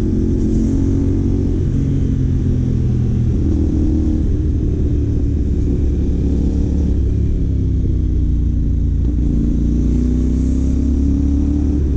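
A CFMOTO 450 parallel-twin motorcycle engine with a Yoshimura AT2 slip-on exhaust runs steadily while riding at an easy cruise. Its pitch drifts slightly up and down with small throttle changes, over a low wind and road rumble.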